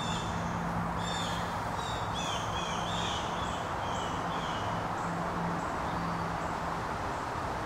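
A bird calling in a series of short, repeated chirping notes through the first half, then falling silent, over a steady low hum and a faint hiss.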